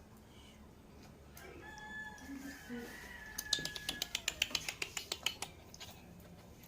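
A long drawn-out bird call, followed by a quick run of sharp clicks at about five a second.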